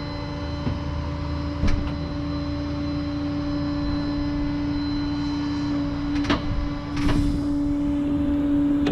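Tow truck engine running steadily with a constant hum. There are sharp clacks about two seconds in and again past six seconds, and a hiss starts about seven seconds in.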